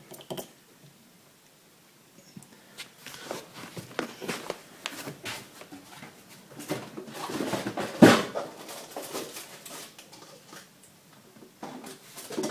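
Water from a Bosch washer-dryer's emergency drain hose spilling into a small plastic yogurt pot, with irregular knocks and rattles of the pot and hose being handled and one sharper knock about eight seconds in.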